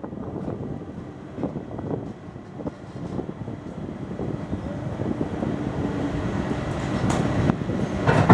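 Passenger train coaches rolling slowly along the rails: a low rumble with irregular clanks and wheel clacks over rail joints, growing louder toward the end with sharper clacks near the close.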